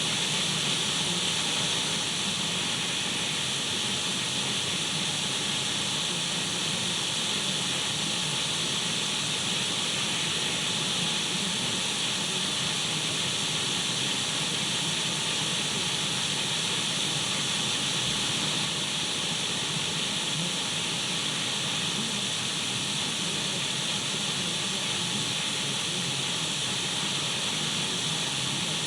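Radio static: a steady, even hiss of an untuned radio, brightest in the upper range, that holds level without change.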